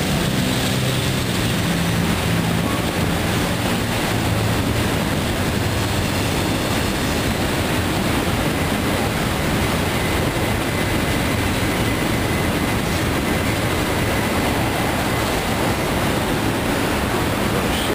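Freight cars of a CSX local train rolling past at steady speed: a continuous rumble and clatter of steel wheels on rail. A low drone, fading over the first few seconds, is the locomotives moving away, and a faint thin squeal comes in briefly about halfway through.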